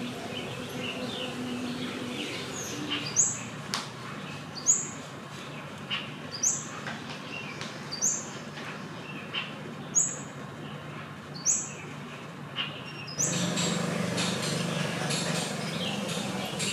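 A bird repeating a short, sharp, rising chirp about every second and a half, some seven times, over a steady low background hum that grows louder near the end.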